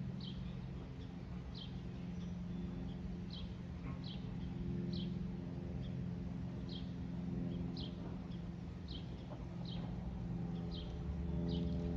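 A small songbird chirping over and over, short high notes that drop quickly in pitch, about one a second. Beneath it runs the steady low drone of a distant aircraft engine, swelling and fading.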